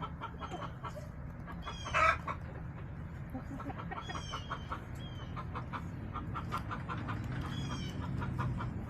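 Backyard hens clucking softly in short repeated notes, with one louder call about two seconds in.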